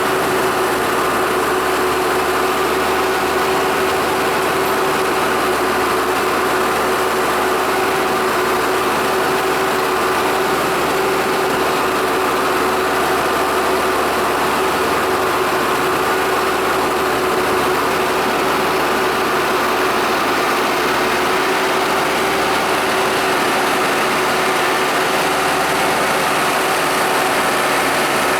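Deutz-Fahr Agrolux 4.80 tractor engine running steadily at raised revs, an even drone with a constant hum that does not change.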